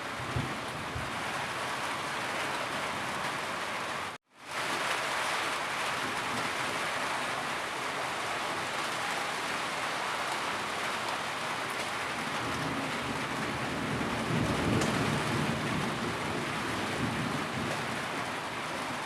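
Steady heavy rainfall: a dense, even hiss of rain. About four seconds in, the sound cuts out for a split second and fades straight back in.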